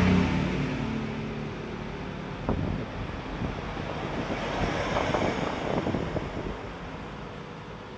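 Electric fan running fast, its airflow buffeting the microphone as a steady rush of wind noise. A low hum fades early on, there is a single knock about two and a half seconds in, and the rush slowly gets quieter near the end.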